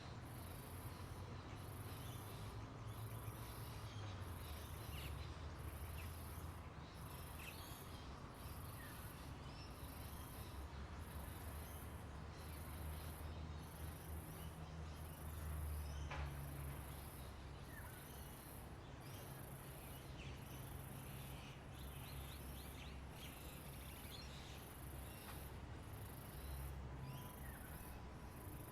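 Outdoor nature ambience: a high insect buzz pulsing roughly once a second, with scattered short bird chirps and a low rumble underneath.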